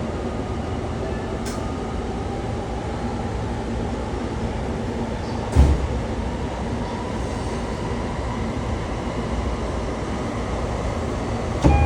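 Running noise inside a JR East commuter train car: a steady low rumble, with a sharp clunk about halfway through and another just at the end.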